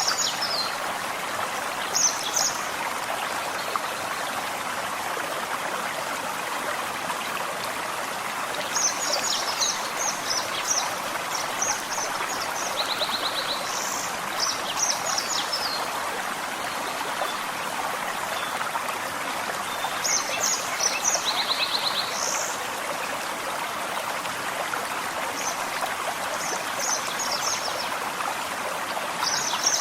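Forest stream flowing and trickling steadily, with small songbirds breaking in every few seconds with short, high chirping phrases and an occasional brief trill.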